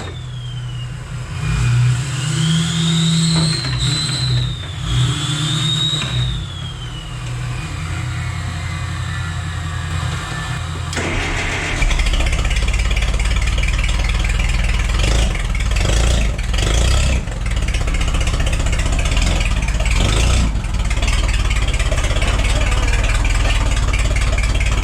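Forklift's propane-fuelled engine running, with rising and falling whines as it revs in the first seconds, then running steadily and louder from about twelve seconds in.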